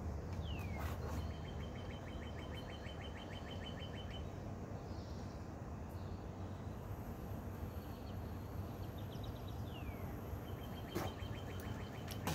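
A songbird singing twice: a falling whistled note followed by a fast, even trill of repeated notes, over a steady low outdoor rumble, with a couple of sharp knocks.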